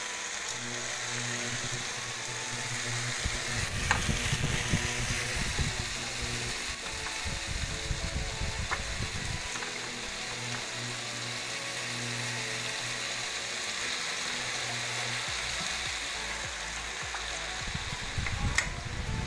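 Chunks of potato, carrot and onion sizzling as they fry in oil in a pan, with a few sharp clicks.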